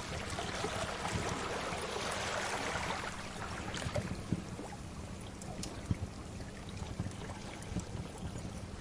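Sea waves washing in, swelling over the first few seconds and then easing off, with scattered crackles and pops of a fire throughout.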